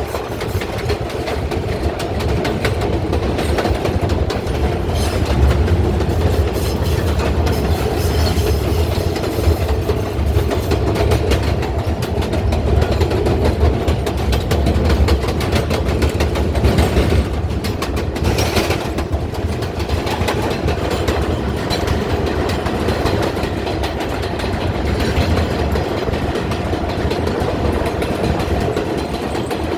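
R142A subway train running along the track, heard from on board: a steady low rumble with a fast clickety-clack of wheels over rail joints, briefly louder and brighter a little past the middle.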